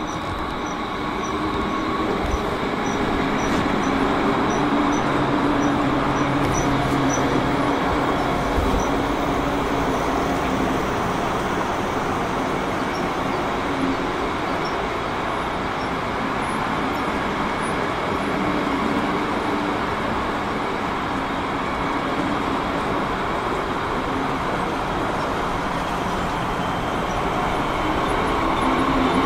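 Train running through a station: a steady rolling rumble with a faint low hum, getting a little louder in the first few seconds.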